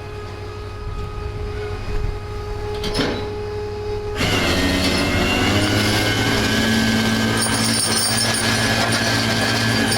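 Tow truck running with a steady low hum; about four seconds in, a much louder steady grinding and screeching with a whine sets in as the wrecked Harley-Davidson motorcycle is winched and dragged onto the truck.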